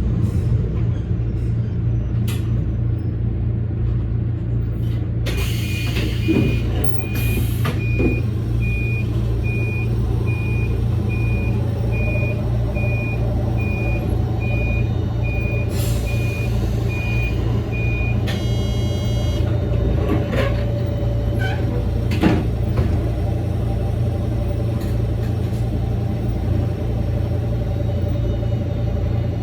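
Electric train running with a steady low hum of motors and wheels. A high electronic beep repeats about twice a second for roughly twelve seconds, starting about five seconds in, and is followed by a brief higher ringing tone.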